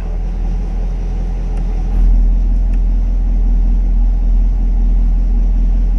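2020 Chevy Camaro SS 6.2-litre LT1 V8 idling, heard from inside the cabin. About two seconds in, the exhaust note steps up louder and stays there: the active exhaust opening with a drive-mode change.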